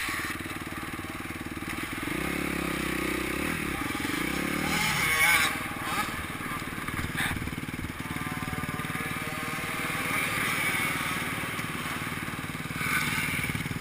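Motocross bike engine running, revving up from about two seconds in to a peak near five seconds, then carrying on at a steadier pitch.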